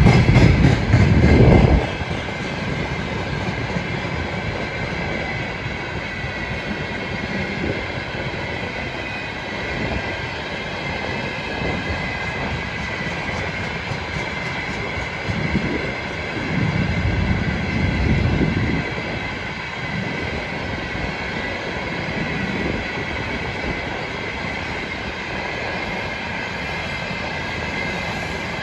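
Freight train of railway tank cars rolling past close by, a steady rumble of steel wheels on rail with clickety-clack over the rail joints and a thin, steady high-pitched wheel squeal. The low rumble swells louder in the first two seconds and again about 16 to 19 seconds in.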